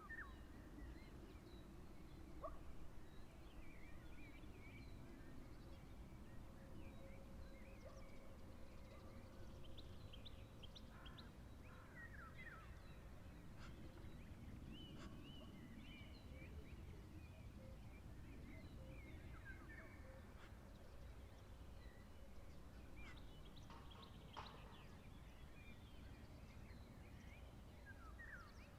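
Faint, scattered bird chirps and short calls over a low, steady background noise.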